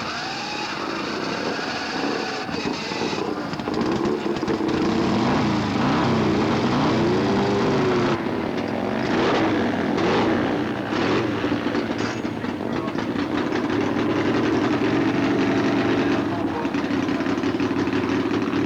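A motorcycle engine revved up and down several times, then settling into a steady run.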